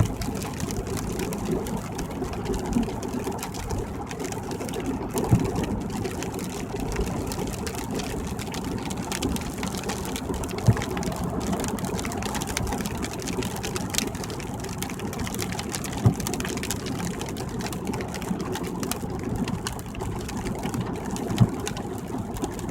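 Steady rumble of a car's tyres and engine on a wet highway, heard inside the cabin, with a few short knocks at irregular intervals.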